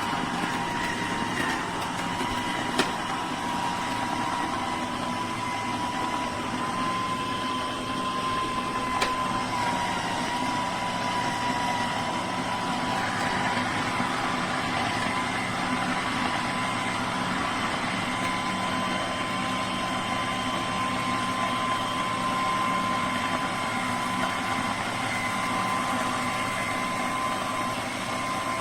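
AAOBOSI electric juicer running steadily: an even motor hum with a thin, steady whine, and two light clicks about three and nine seconds in.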